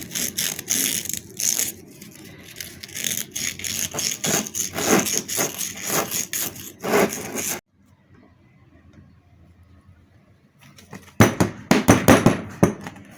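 Sandpaper rubbing back and forth on the rusty steel shaft of a centrifugal water pump, quick rasping strokes, to clean off rust before a new seal goes on. The rubbing cuts off abruptly a little past halfway, and a few louder scraping strokes come near the end.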